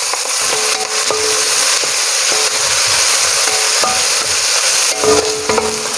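Diced onion, shiitake mushrooms and garlic sizzling in a stainless steel wok as they are sautéed, stirred with a wooden spatula that makes a few light scrapes and taps against the pan.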